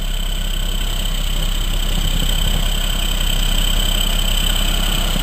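Diesel engine of a milk tanker truck running steadily with a low rumble.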